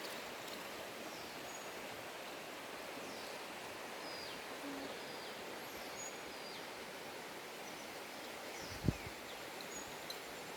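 Outdoor ambience of scattered small bird chirps, short and high, several sliding downward, over a steady hiss. One brief soft thump comes near the end.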